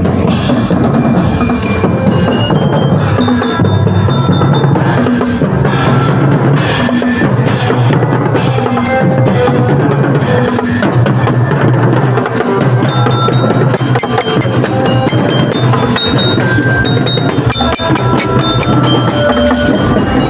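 Loud music from a marching drum band: drums keep a steady beat under a bright melody on bell-like mallet percussion.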